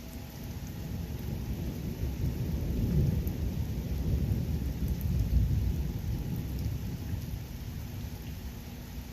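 A long roll of thunder rumbles low, swelling over the first few seconds and dying away near the end, over a steady hiss of rain.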